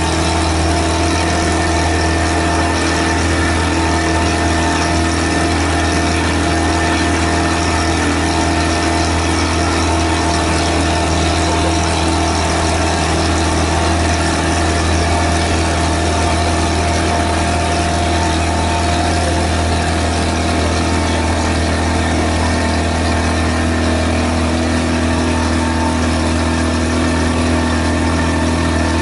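Tour boat's engine running steadily with a deep, even hum.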